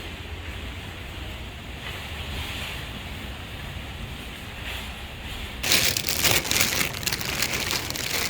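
A steady low hum, then, about two-thirds of the way in, a loud crinkling rustle of something being handled.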